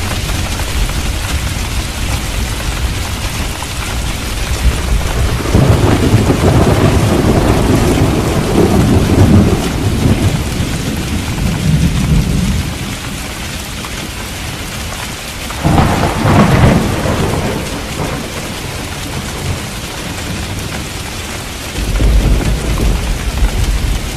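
Steady heavy rain with thunder: a long low rumble rolls through the first half, a sharper clap comes about two-thirds of the way in, and another rumble starts near the end.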